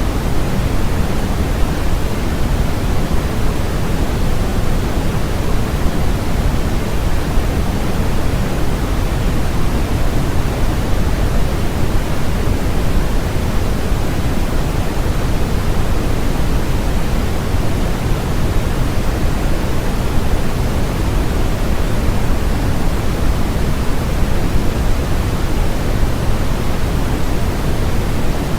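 Steady generated noise sold as white noise, unchanging throughout. Its energy is heaviest at the low end and falls off toward the top, so it sounds like a deep, even rush, closer to pink noise than to a bright hiss.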